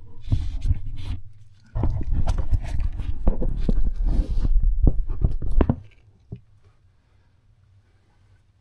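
Grease gun being pumped on a U-joint's Zerk fitting: a short bout of clicks and clunks, a pause, then about four seconds of quick clicks and knocks that stop near six seconds in. The fitting is blocked, so the grease is not getting through the joint.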